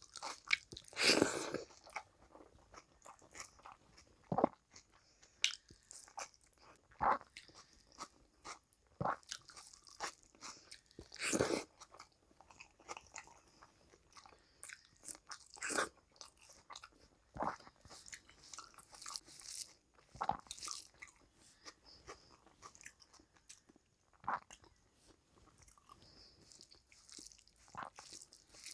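Close-miked chewing and lip smacking of rice and curry eaten by hand, with fingers squishing the food: irregular wet clicks and smacks, with louder bursts about a second in and again around eleven seconds.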